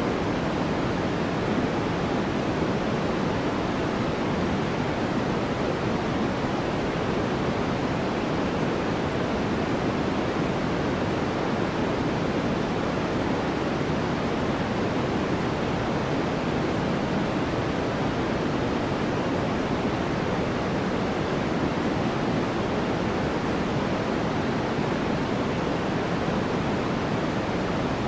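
Steady, unchanging generated noise for sleep, billed as white noise. Its energy sits low and fades toward the highs, so it sounds like a deep, even hiss.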